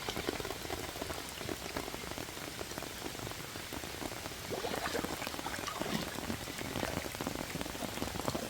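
Heavy rain falling steadily: a dense, even hiss of many small drops striking.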